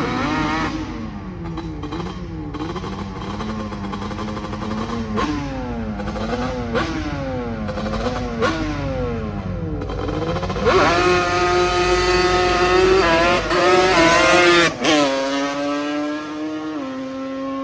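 A vehicle engine revved up and down over and over, then held at high revs for about four seconds during a burnout, before easing down in two steps.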